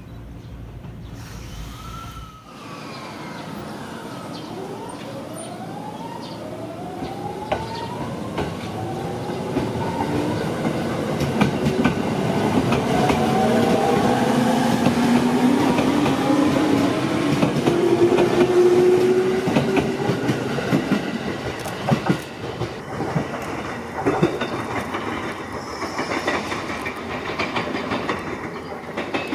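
Electric commuter train pulling out of the station: its motors whine in a series of rising tones as it accelerates, then the wheels clatter over the rail joints, louder as the cars pass and fading near the end.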